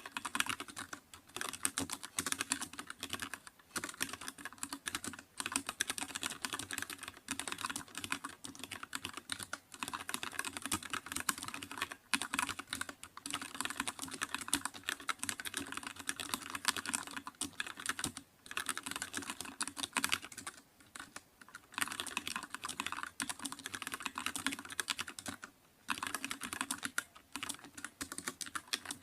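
Typing on a computer keyboard: fast, steady runs of keystrokes broken by brief pauses every few seconds.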